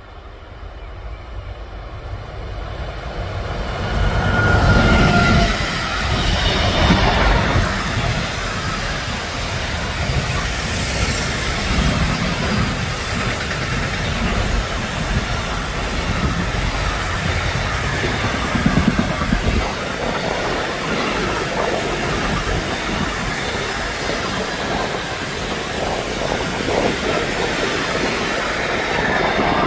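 A train approaching and then running past on the track for a long stretch, with wheels clattering over the rails. The sound builds over the first few seconds and stays loud as the cars go by.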